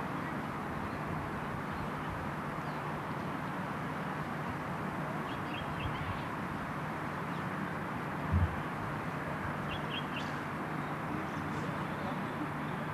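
Steady outdoor hiss with a faint low hum, a bird chirping in quick groups of three short high notes about every four to five seconds, and one dull low thump about eight seconds in.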